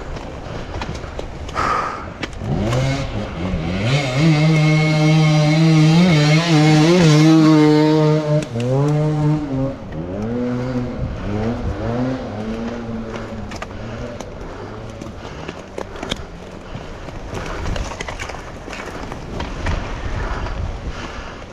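Enduro dirt bike engine revving up and down in quick blips. It is loudest from about four to eight seconds in and dies away by about twelve seconds, leaving a steady rough rumble.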